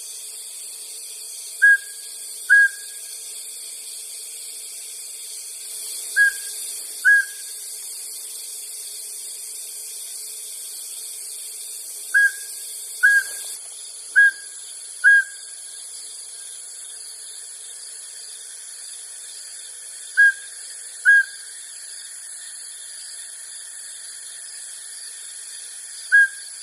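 Mountain scops owl calling: short, high whistled notes given in pairs about a second apart, each pair repeated every five or six seconds, over a steady high hiss.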